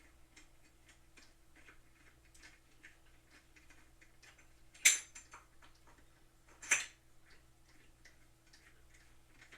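Light handling noise of equipment parts being assembled: faint irregular clicks and taps, with two sharper knocks about five seconds and about seven seconds in. A faint steady hum lies underneath.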